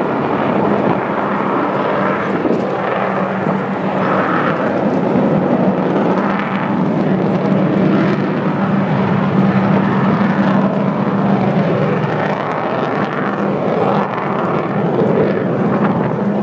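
Avro Vulcan XH558's four Rolls-Royce Olympus turbojets running at high power as the bomber accelerates into a climb: a loud, steady jet noise with a low hum running underneath.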